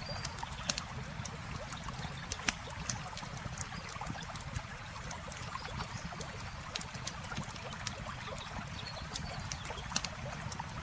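Campfire crackling with irregular sharp pops over the steady rush of flowing water.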